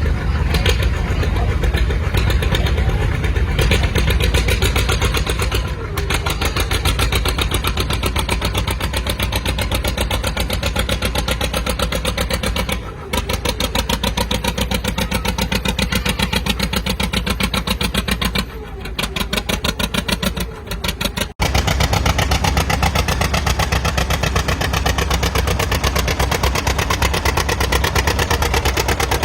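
Antique farm tractor engine running hard with a rapid, even firing beat. The sound breaks off abruptly a few times and picks up again.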